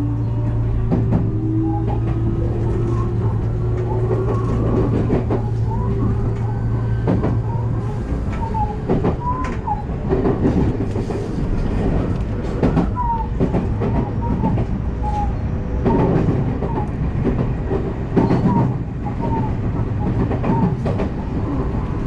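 Electric multiple-unit train running at speed, heard from inside the train: its traction motors give a low hum and a slowly rising whine that fade about eight seconds in, and the wheels clack over rail joints with short squeals throughout.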